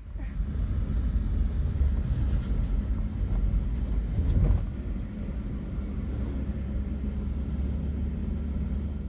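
Steady low vehicle rumble, swelling briefly about four seconds in.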